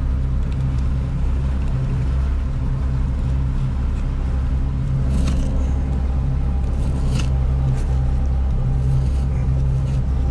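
Boat engine running with a steady low drone, with a few brief sharp clicks about five and seven seconds in.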